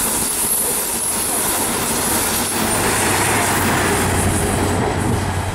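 InterCity 125 High Speed Train passing close by: its Mk3 coaches go by with a steady rolling rail noise, then the trailing Class 43 diesel power car adds a low engine hum from about three seconds in as it passes.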